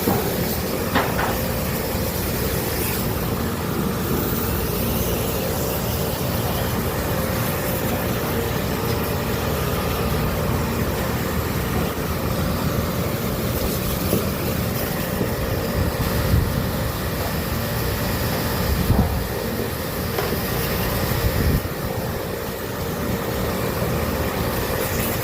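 A machine running steadily with a constant hum, with a few brief knocks standing out about a second in and again in the second half.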